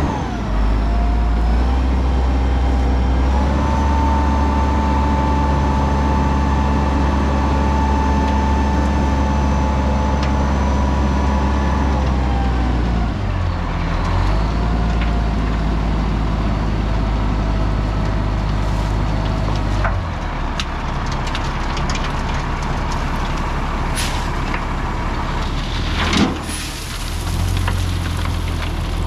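Heavy machine engine running under load, with a steady whine through the first half that drops away about 13 seconds in, and a single sharp knock near the end.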